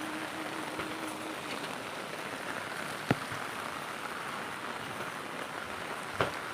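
Heavy rain falling steadily, an even hiss, with a sharp tap about three seconds in.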